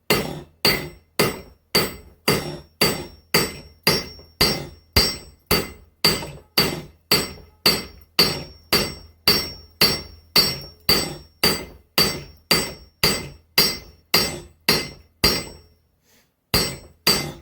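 Blacksmith's hammer striking spring steel on an anvil in a steady rhythm of a little over two blows a second, each blow ringing, while the edge is scarfed down into a bevel for forge welding. The hammering breaks off briefly near the end, then starts again.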